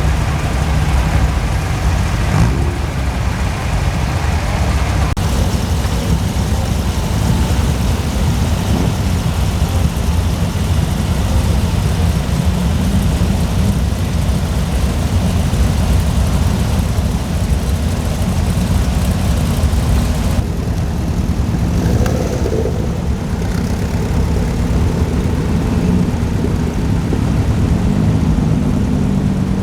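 Vintage Volkswagen engines running steadily as cars drive in and park, the sound mostly low-pitched.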